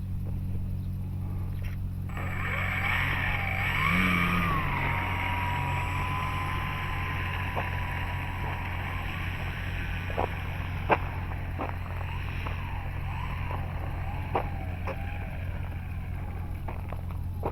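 Electric motor and propeller of a Dynam Super Cub model plane whining as it taxis. The whine comes in about two seconds in, rises briefly in pitch, holds steady, then wavers up and down with the throttle. A few sharp clicks come near the middle.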